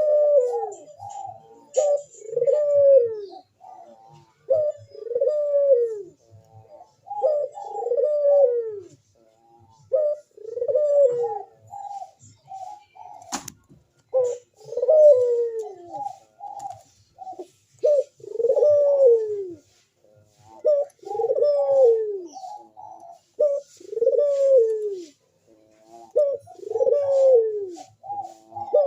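Puter dove (ringneck dove) cooing over and over, each phrase a short lead-in followed by a long coo that falls in pitch, repeating every couple of seconds: the persistent cooing of a male in breeding condition. One sharp click about halfway through.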